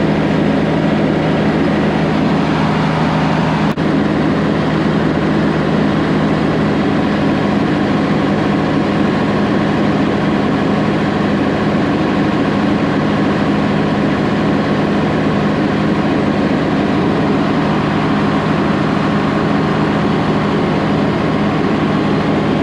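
A 2000 Freightliner FLD 112 semi's six-cylinder diesel engine running steadily during an injector cutout test, with a brief click about four seconds in. Injectors 1 and 6 are dead, so the engine runs on four of its six cylinders.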